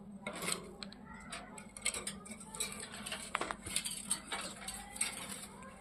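Pet ringneck parrots scuffling: an uneven run of sharp clicks and taps, like beaks and claws on cage bars and dishes, with a few faint short chirps.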